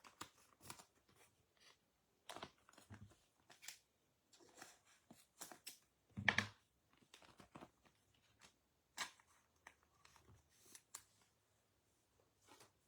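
Faint, irregular rustles and clicks of baseball cards being handled and shuffled, with a louder soft knock about six seconds in.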